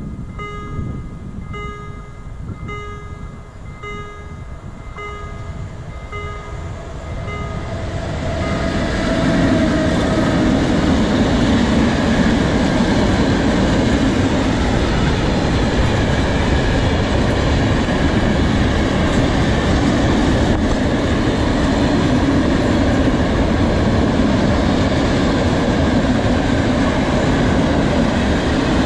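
Level-crossing warning bell dinging in a steady repeated rhythm. About eight seconds in, a freight train of open steel wagons comes up and rumbles past on the rails, loud enough to drown out the bell.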